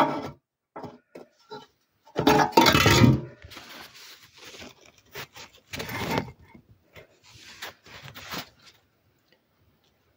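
Metal clinks, knocks and scrapes as a small old enamelled wood stove is handled, with a louder clatter about two seconds in and another around six seconds.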